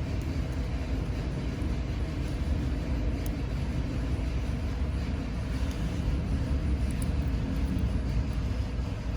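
A steady low rumble with no clear pitch, carrying a few faint small clicks.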